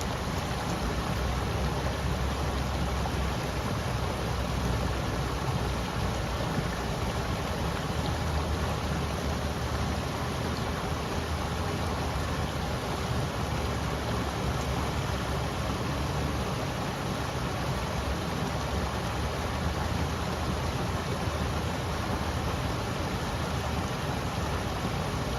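A river flowing: a steady, even rush of water with a strong low rumble beneath it.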